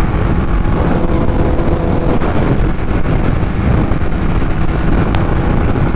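Kawasaki Ninja H2's supercharged inline-four running at a steady cruise through a full titanium Vandemon exhaust, with wind rushing over the helmet microphone.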